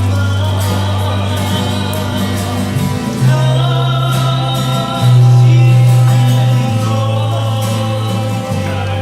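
Live band music: singing over guitar, with long held bass notes that change every second or two.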